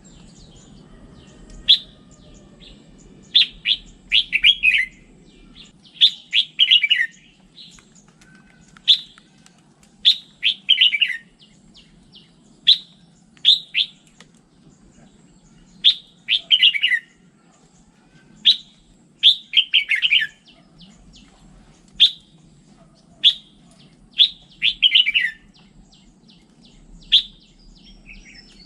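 Red-whiskered bulbul singing: short, loud whistled phrases repeated every second or two, several falling in pitch, over a faint low hum.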